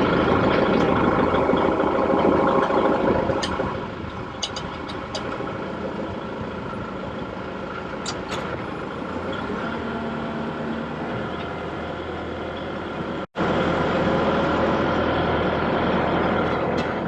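An engine running steadily, louder for the first few seconds, then quieter, and louder again after an abrupt cut near the end.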